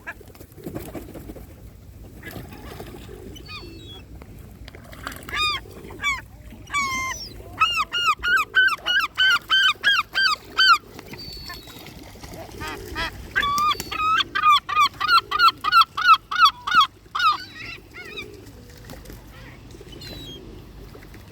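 Loud waterbird calls: two long runs of rapid, evenly repeated yelping calls, about four a second, with scattered single calls between.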